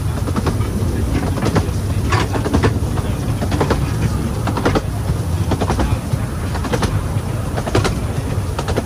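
15-inch-gauge railway carriage running along the track: a steady low rumble with irregular sharp clicks and knocks from the wheels and running gear.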